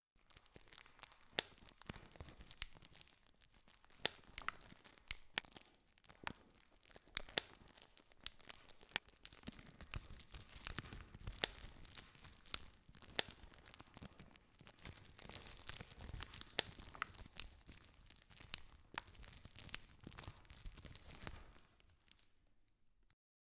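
Campfire crackling: a dense run of irregular sharp pops and snaps over a soft hiss, stopping suddenly near the end.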